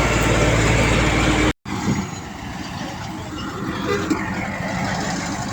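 Heavy diesel earthmoving machinery running steadily. About one and a half seconds in, the sound cuts out for a moment at an edit, and a quieter, rougher machine noise follows.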